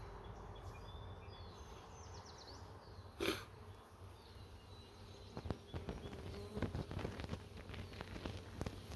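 Honeybees buzzing around an opened hive, a steady hum, with a brief louder rush about three seconds in and scattered light knocks and clicks in the second half.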